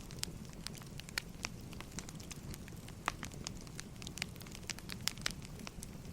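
Wood fire crackling: irregular sharp pops and snaps, a few louder ones, over a steady low rumble of burning logs.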